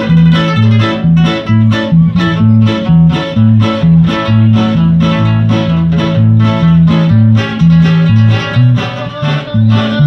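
Band music with quickly plucked guitar notes over a bass line that alternates between two notes in a steady, bouncing rhythm.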